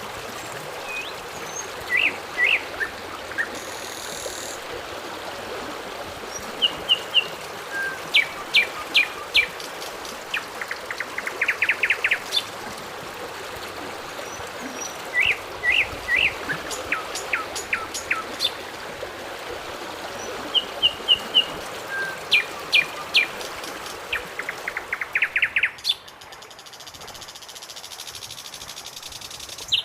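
Birds chirping and calling again and again, short sharp notes and quick trills, over a steady hiss that drops away suddenly near the end.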